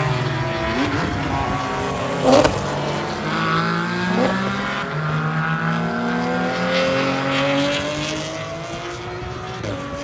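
Porsche race car engine pulling hard, its pitch climbing slowly, with a few sharp breaks in the first half and a drop in pitch near the end as it shifts gear.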